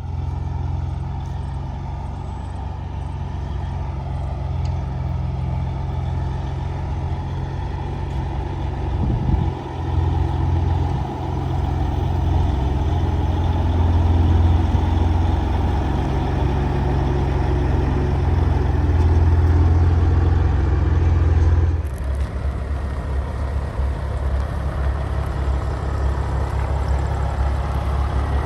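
Heavy diesel truck engine, the Caterpillar 3406 of a 1993 Kenworth K-100E cabover, running steadily with a deep low drone. The sound shifts abruptly about three-quarters of the way through, then carries on steady.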